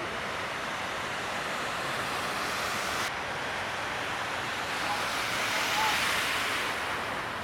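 Breaking ocean surf: a steady wash of whitewater that swells to its loudest about six seconds in.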